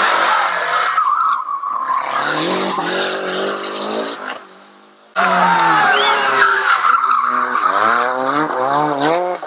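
Group A and N rally cars driven flat out on a tarmac special stage. The engines rev hard, their pitch rising and falling with gearchanges, and the tyres squeal. The sound fades about four seconds in, then cuts back in abruptly with another car revving up and down through the gears.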